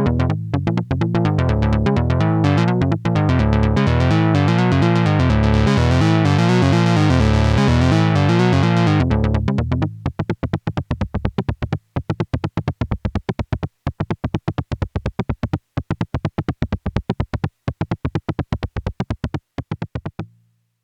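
Synthesizer music of rapid, evenly repeating sequenced notes over a heavy bass line. About ten seconds in, the bass drops out and the notes thin to sparser repeated pulses, which stop shortly before the end.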